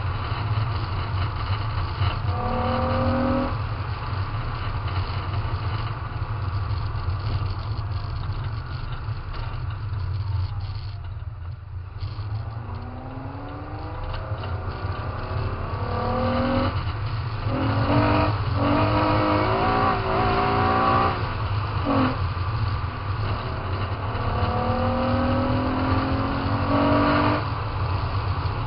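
Mitsubishi MIVEC engine pulling hard through the gears. The revs climb again and again, with short breaks at each gear change. About ten seconds in the revs fall away as the driver lifts off, then the engine climbs through the gears again. A steady low rumble runs underneath.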